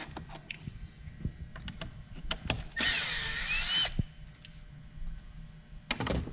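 Power drill spinning an 8 mm bolt out of an airbox for about a second, its motor whine bending up and down in pitch, amid scattered clicks and knocks of the bolts and parts being handled.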